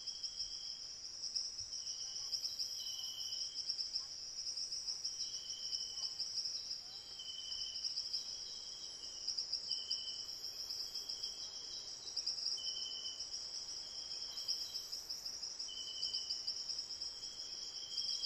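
Summer insect chorus in the woods: a steady high-pitched shrill, with a second insect's short pulsing calls repeating roughly once a second.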